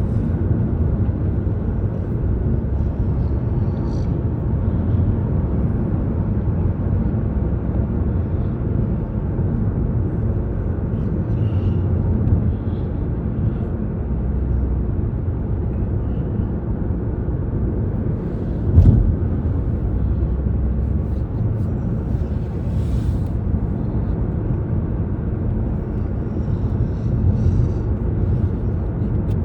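Steady low rumble of road and engine noise from a car driving on a highway, with a single sharp thump about nineteen seconds in.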